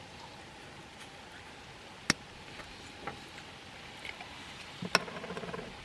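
Glass bottle of birch beer being handled and opened: three sharp clinks about two, three and five seconds in, the last followed by a short crackle.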